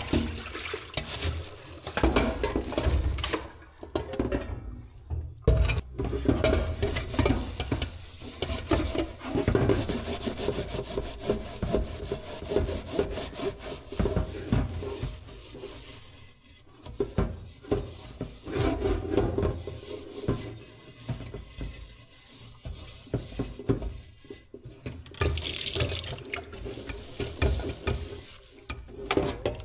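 Kitchen food-prep sounds: a utensil stirring and scraping against a dish or pot, with irregular clinks and a few brief pauses.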